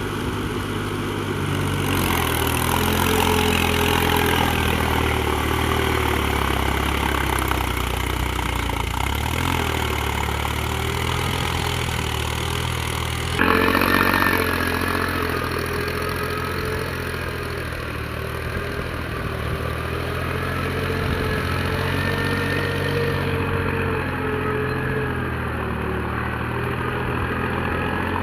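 Mahindra tractor's diesel engine running steadily, its pitch shifting a little. About halfway through the sound changes abruptly, with a brief louder moment.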